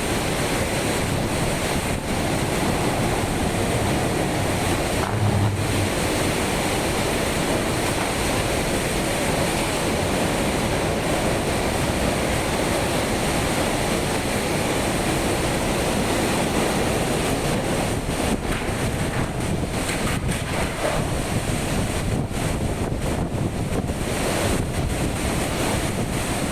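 Steady rushing noise of a rainstorm with strong wind, the wind buffeting the microphone, and a brief low rumble about five seconds in.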